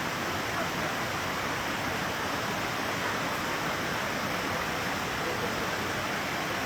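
Steady rushing of flowing water, an even unbroken roar like a stream or waterfall.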